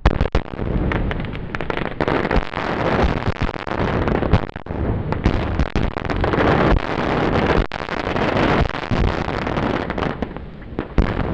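Fireworks going off at ground level: a sudden loud bang, then a dense barrage of many quick bangs and crackling sparks with no pause.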